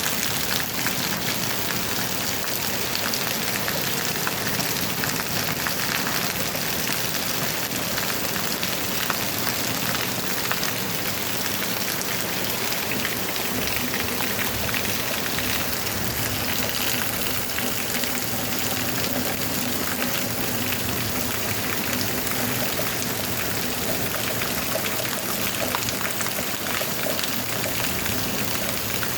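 Heavy rain falling steadily: a dense, even hiss of rain peppered with individual drop hits.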